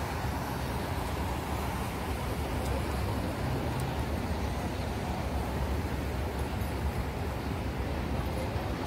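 Freight cars of a southbound CSX manifest train rolling past in a steady low rumble.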